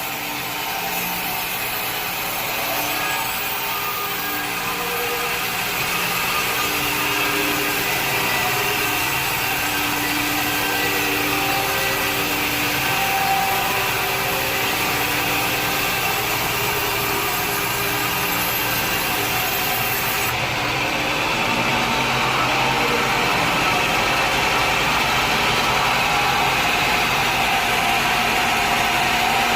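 Sawmill machinery running steadily, with motor hum and saw noise.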